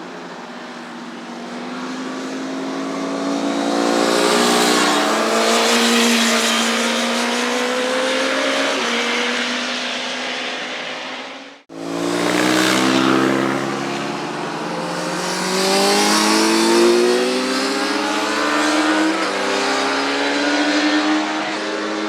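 Motorcycles passing at speed, their engine notes rising and falling as they go by. The sound cuts out abruptly just before halfway and starts again with more passes.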